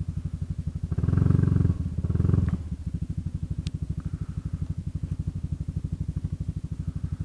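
Single-cylinder scooter engine of a Kymco Xciting 400i idling with a steady low pulsing. About a second in, it swells briefly into a louder engine surge for a second and a half, then settles back to idle.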